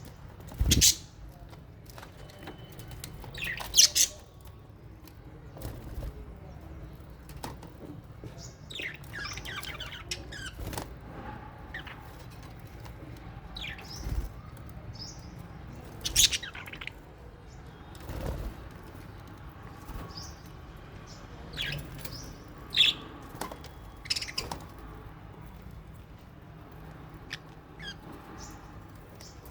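Lovebirds and budgerigars in an aviary giving scattered sharp chirps and squawks, with several brief flaps or thumps in between.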